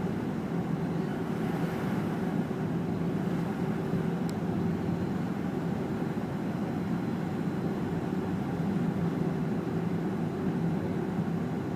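Steady cabin noise inside a Fokker 100 jet airliner, the hum of its rear-mounted Rolls-Royce Tay turbofans running evenly over a rush of air.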